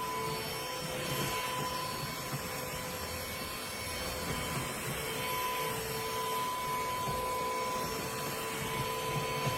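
Trucozie cordless stick vacuum cleaner running steadily: a motor whine over the rush of air.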